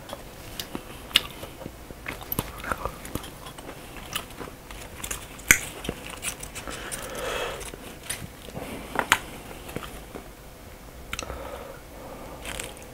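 A person chewing food close to the microphone, with many short, sharp wet mouth clicks scattered through it.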